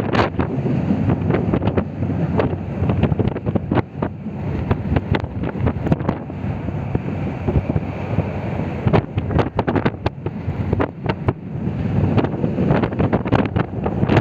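Moving train running at speed: a steady rumble with frequent irregular sharp clacks from the wheels and carriage, and wind buffeting the microphone.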